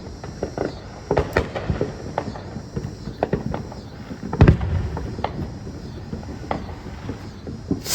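Scattered pops and crackles of fireworks going off around the yard, irregular and overlapping, with one louder low thump about four and a half seconds in.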